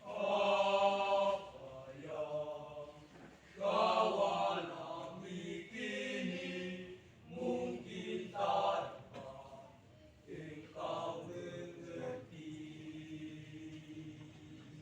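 School choir singing in short phrases, with brief breaks between them.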